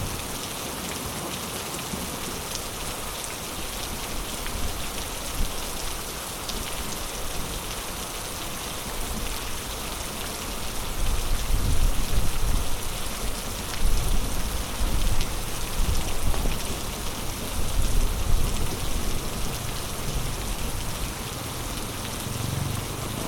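Heavy rain falling steadily in a storm, a dense even hiss of drops on surfaces. From about halfway through, deep low rumbling swells come and go over the rain.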